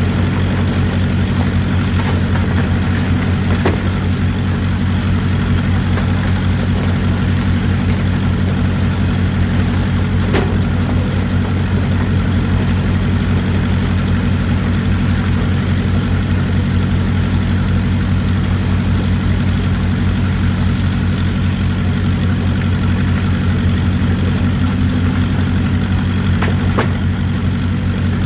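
Excavator's diesel engine running steadily, with a few faint knocks now and then.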